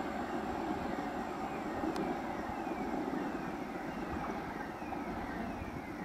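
Passenger train's coaches rolling away over the rails: a steady rumble and rattle of wheels on track as the train recedes. A faint high falling tone repeats about once a second above it.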